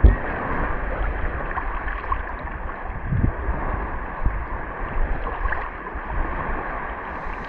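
Shallow sea water sloshing steadily around someone wading, with a couple of low thumps, one at the start and one about three seconds in.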